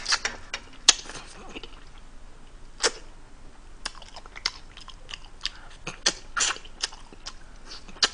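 Close-up chewing and lip-smacking of a person eating saucy fried chicken and rice cakes: irregular wet smacks and clicks, a few of them sharper and louder.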